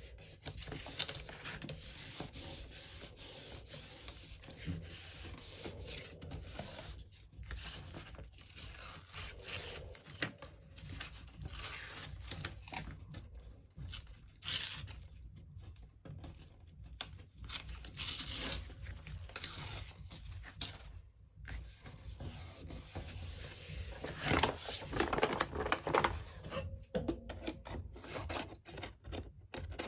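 Paper and cardboard being handled by hand, with irregular rubbing, rustling and scraping strokes that grow busier in the last few seconds.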